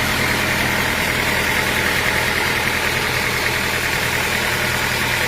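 Sawmill machinery running steadily with a constant drone, an engine or motor holding an even speed.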